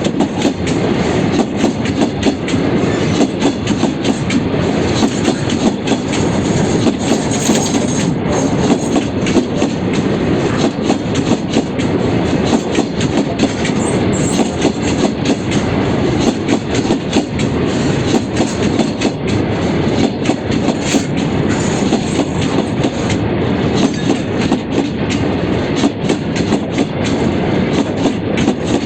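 Freight train of covered goods wagons rolling past, its wheels clattering steadily over the rail joints in a continuous clickety-clack.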